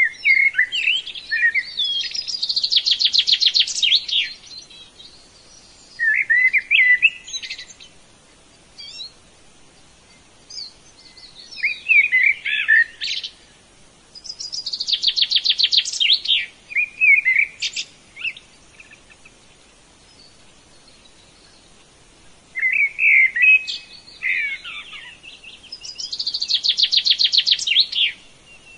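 A songbird singing three phrases a few seconds apart, each a run of quick twittering chirps that ends in a fast trill.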